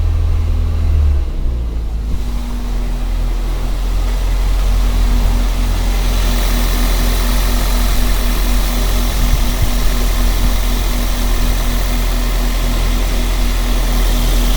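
Car engine running steadily, picked up close by a microphone. About a second in its low tone shifts, and from about six seconds in a brighter hiss rises over it.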